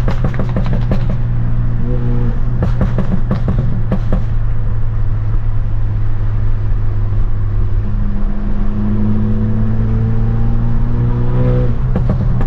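Tuned, straight-piped BMW F30 328i's turbo four-cylinder exhaust droning steadily inside the cabin while driving. There are a few sharp cracks in the first few seconds, and the engine note climbs a little after about eight seconds.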